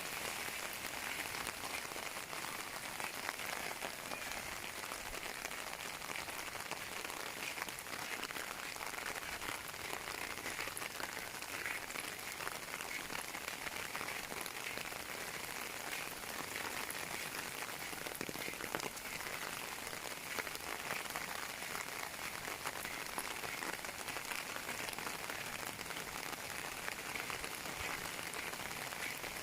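Steady rain falling, a continuous hiss dotted with many small ticks of drops.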